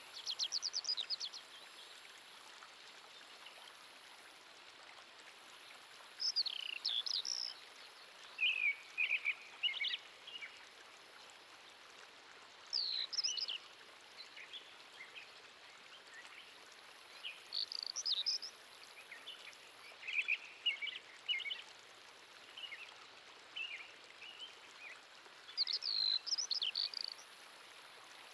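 Forest ambience: a songbird singing short, quick phrases every few seconds over a steady faint hiss, with a very high thin whine that stops and starts.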